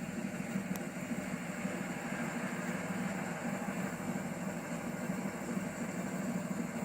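A car engine idling steadily with a low, uneven rumble.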